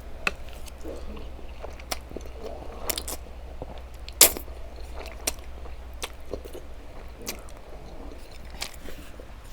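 Chewing a mouthful of Buldak cream carbonara ramen noodles: soft wet mouth sounds and scattered clicks, with one sharper click about four seconds in, over a faint low steady hum.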